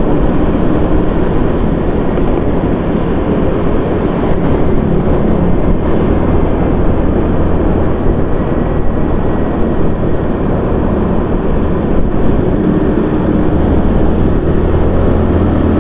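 Steady running noise of a vehicle moving through city traffic: a constant low engine hum under a continuous rush of wind and road noise.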